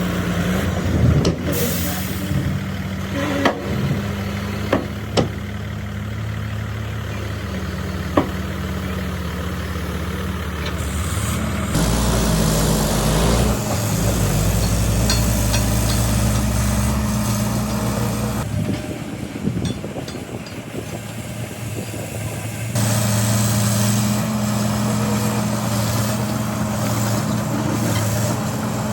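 Diesel engines of heavy earthmoving machines running, with several sharp metallic knocks in the first eight seconds. The engine sound changes abruptly three times, near the middle and toward the end.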